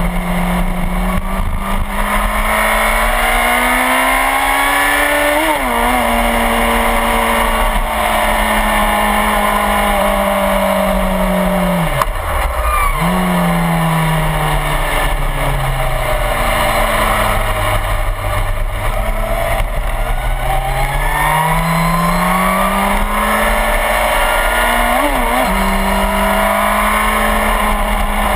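Suzuki GSX-R1000's inline-four engine heard onboard at speed with wind rush. The engine note climbs for about five seconds and holds, drops sharply and briefly about twelve seconds in, then falls away for several seconds as the bike slows before climbing again and holding near the end.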